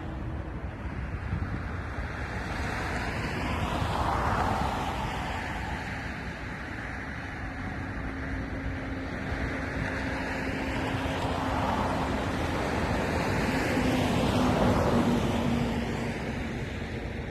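Jet airliner noise during the approach to landing: a steady rushing of engines and air, swelling about four seconds in and again near the end, with a faint low hum.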